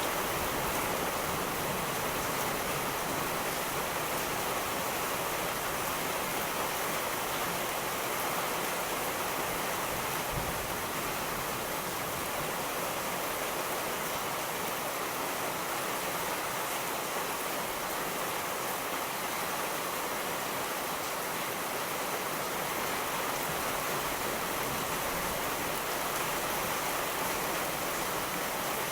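Steady rain falling, a continuous even hiss with no distinct thunderclap.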